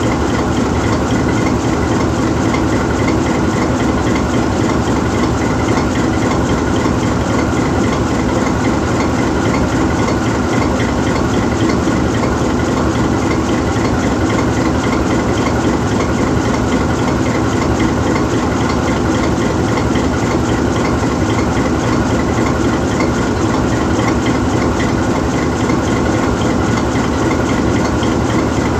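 GE U20C diesel-electric locomotive standing still, its V12 diesel engine idling steadily.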